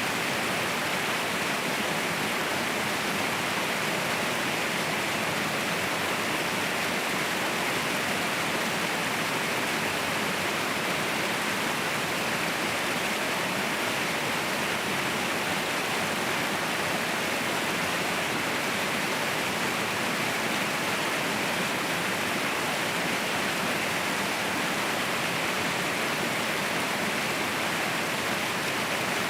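Waterfall pouring steadily: an even, unbroken rush of water with no separate splashes or changes.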